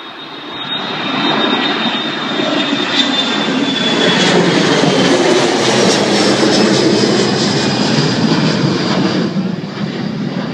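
An airliner's engines roar as it passes close by with a high whine. The noise swells over the first second or two, stays loud and eases off near the end.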